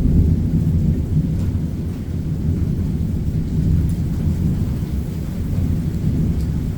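Thunder rolling in a long, deep continuous rumble that swells and eases, with a few faint raindrop ticks over it.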